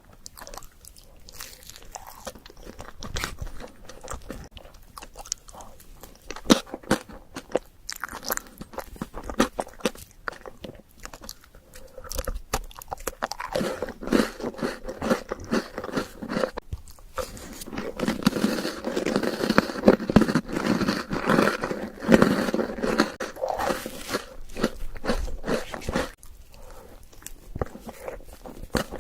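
A person biting and chewing crunchy Oreo chocolate dessert, with a stream of sharp crunches and mouth sounds. The crunching grows denser and louder for several seconds in the middle.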